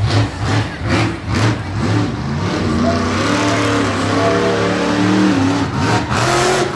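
Monster truck engine revving in quick blips, then held at high revs with a steady engine note before a final surge.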